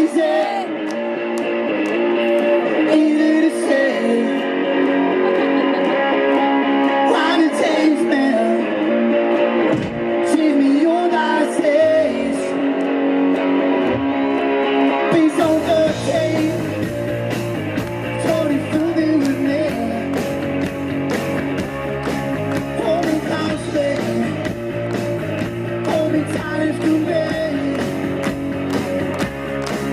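Live rock band playing, with guitar leading at first; bass guitar and drums come in about halfway, filling out the low end with a steady beat.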